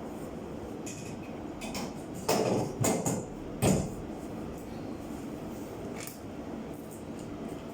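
Three loud knocks, like hard parts being handled or set down, come a little over two seconds in, under a second apart. A steady low rumble runs underneath.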